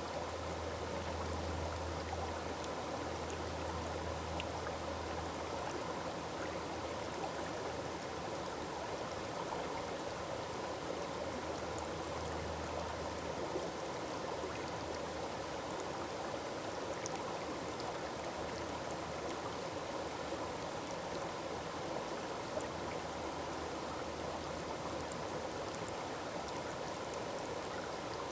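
Forest waterfall: water falling and splashing steadily, a constant rushing hiss.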